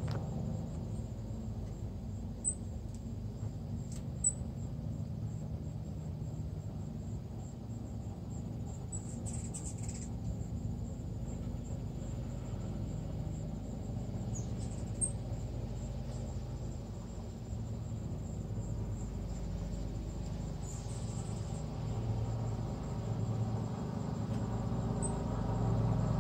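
Hummingbirds giving brief, very high squeaky chips now and then, twice as a longer run of chittering, over a steady low rumble.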